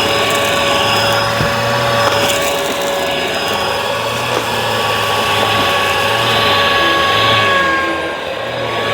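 Bissell vacuum cleaner running steadily: a motor whine of several steady tones over the rush of air, dipping slightly near the end.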